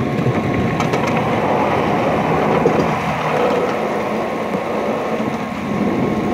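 Small ride-on garden train running along its track, heard from an open passenger car: a steady running noise with a faint constant whine above it.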